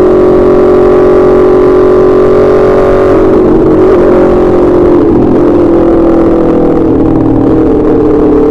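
Aprilia RSV4 RF's V4 engine running at steady high revs through an SC Project S1 slip-on exhaust; the pitch eases down a little about halfway through, then holds.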